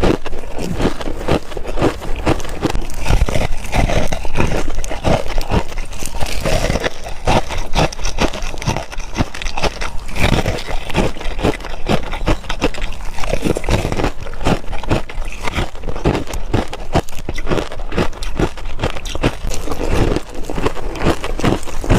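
Crushed ice crunched between the teeth close to the microphone: a steady run of rapid, crisp crunches and crackles.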